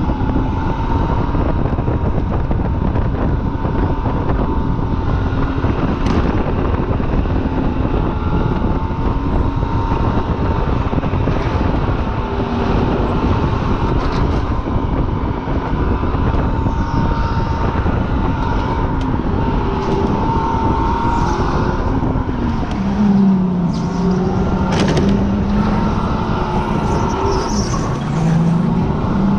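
Supercharged car's engine running hard through a track lap, heard from on board over heavy wind and road noise. Its pitch rises and falls with the throttle, dipping lower a couple of times near the end.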